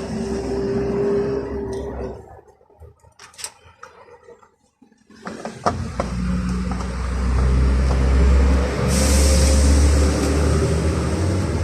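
A motor vehicle engine running with a low, steady rumble from about five seconds in, after a quieter stretch with a few clicks.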